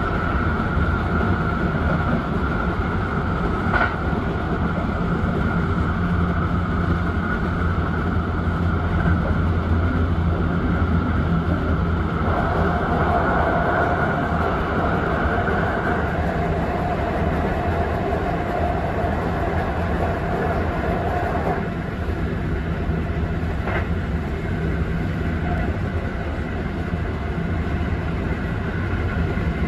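Kintetsu Urban Liner electric limited-express train running at speed: a steady rumble of wheels on rail. Over it a steady high whine gives way to a lower one about halfway through, which stops about two-thirds of the way in, with two faint clicks.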